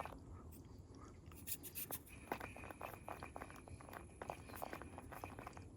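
Micro RC rock crawler's tyres scratching and crackling over rock in many small clicks, with the high, steady whine of its small electric motor from about two seconds in until near the end.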